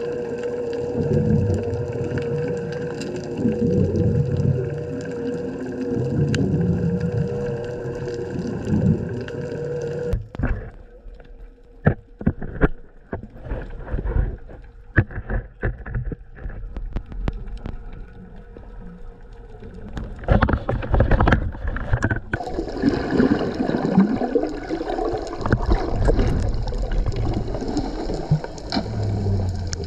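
Boat motor running with water sloshing and gurgling around the hull. It drops out about ten seconds in to a quieter stretch of scattered sharp clicks, and loud water and motor noise returns about twenty seconds in.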